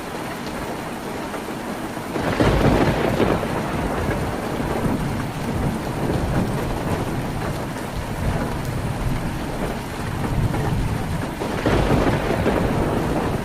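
Heavy rain drumming steadily on a tin roof. It swells louder twice, about two seconds in and again near the end, each time with a low rumble.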